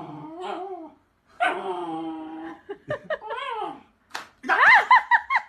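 A dog vocalizing: drawn-out wavering whines or howls in the first few seconds, then a quick run of short, high, rising yips near the end.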